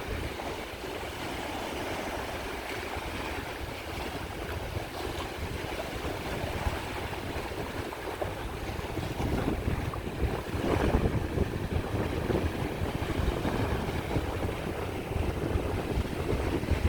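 Sea waves washing onto the shore, with a larger wave surging in about nine to eleven seconds in. Wind buffets the microphone with a low rumble throughout.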